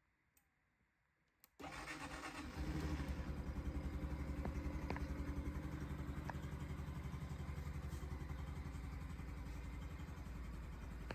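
Honda Super Cub C125's 125 cc single-cylinder four-stroke engine being started after a couple of faint clicks: it comes in suddenly about a second and a half in, picks up about a second later, and settles into a steady, evenly pulsing idle.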